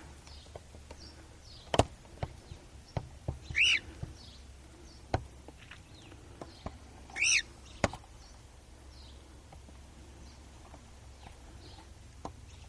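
Cockatiel calling twice, short pitched calls about four seconds apart, with a few sharp clicks in between.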